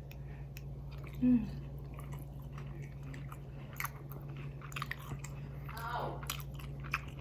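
A person chewing and biting into boneless chicken wings close to the microphone, with many small wet mouth clicks. There is a short vocal murmur early on and another about six seconds in.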